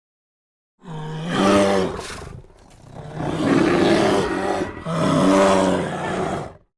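Bear roaring in three long, pitched calls, the first starting about a second in.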